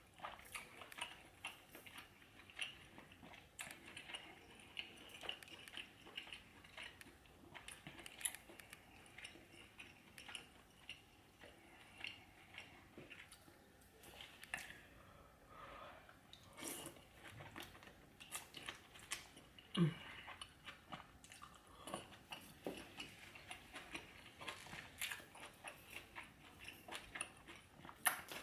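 Close-miked mukbang eating sounds: a person chewing, biting and smacking on seafood boil in butter sauce, with frequent short wet clicks and smacks.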